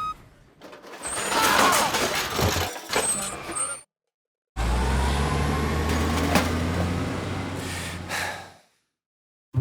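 Vehicle sound effects: a noisy hissing stretch, a sudden cut to silence, then a steady low engine drone that fades out near the end.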